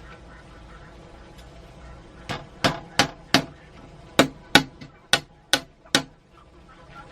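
Nine sharp knocks in two quick runs, four then five, about three a second, like blows struck with a hand tool.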